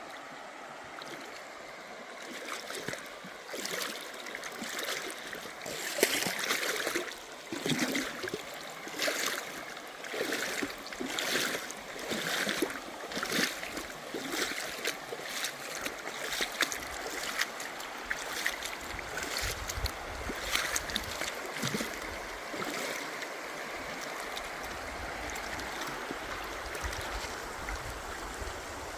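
River water flowing steadily, with a regular run of footsteps on rocks, about one a second, that stops near the end. A low rumble comes in over the last third.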